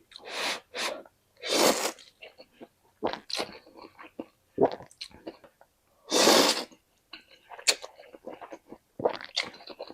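Close-miked eating of spicy noodles with crispy fried chicken intestine: crunching and chewing with small crackly clicks, broken by three loud half-second slurps, near the start, near 2 s and just past 6 s.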